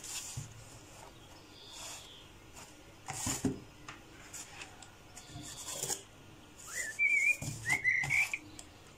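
A bird whistles a few short warbling notes near the end, over cardboard being handled on a wooden table, with a knock about three seconds in.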